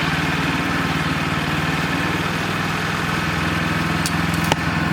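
Wood-Mizer LX25 sawmill's small engine running steadily, with one sharp click about four and a half seconds in.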